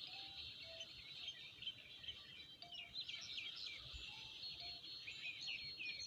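Many small birds chirping together, a dense chorus of short, high calls with a few lower whistled notes now and then.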